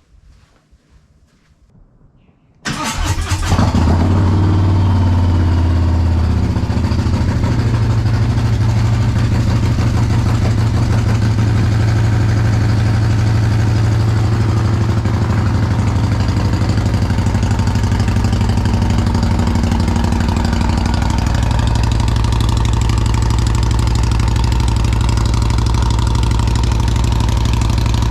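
Harley-Davidson Road Glide V-twin started through Reinhart Slimline Dual pipes with 4.5 DBX mufflers: quiet for the first few seconds, then it cranks, catches and settles into a loud, steady idle.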